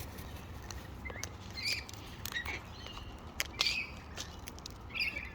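Parrots feeding on birdseed close by: scattered sharp clicks and crunches of beaks working seed, with several short, soft chirps.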